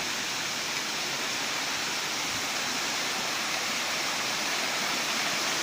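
Steady rushing of fast-flowing water, a dense even hiss and roar, growing slightly louder.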